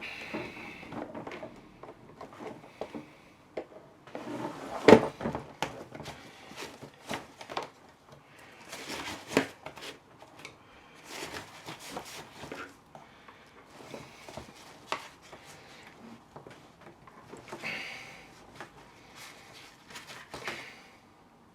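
Irregular clicks, scrapes and knocks of hand tools working at a jammed telescopic suitcase handle, with a sharp knock about five seconds in and another about nine seconds in.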